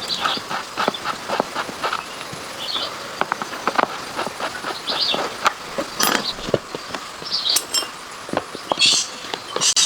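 Irregular light clicks and taps, several a second, with a few short high chirps now and then.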